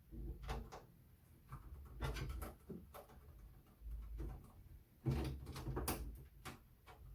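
Handling noise from a Compaq Portable computer's case as the screws holding its lid are undone: scattered clicks, knocks and scrapes in a few short clusters, the busiest about five seconds in.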